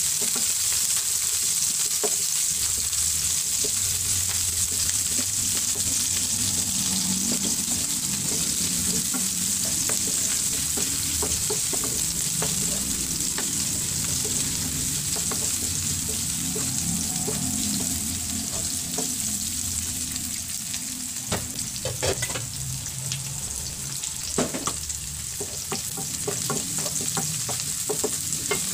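Chopped garlic, onion and ginger sizzling and spattering in hot oil in a nonstick frying pan while a wooden spatula stirs and scrapes them around. A few sharp knocks of the spatula against the pan come in the last third.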